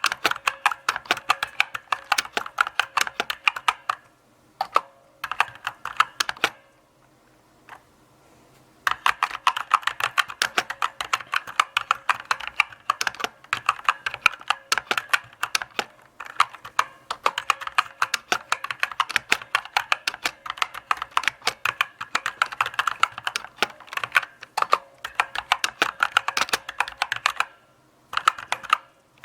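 Typing on a mechanical keyboard: quick runs of key clicks, with a pause of about two seconds a quarter of the way in and briefer breaks elsewhere.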